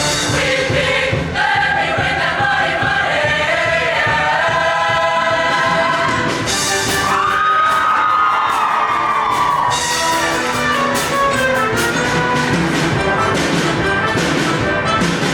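Show choir singing with live band accompaniment; about seven seconds in, voices hold a long high note that swells and then falls away, and the band carries on with drum hits afterward.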